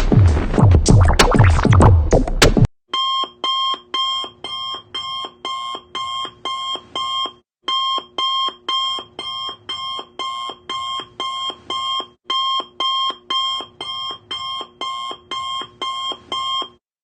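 Music with a heavy beat that cuts off abruptly under three seconds in, followed by electronic alarm beeping: about four beeps a second in three long runs broken by brief pauses.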